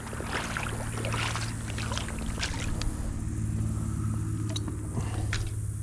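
Flowing creek water with a steady low rush, overlaid with many small splashes and drips.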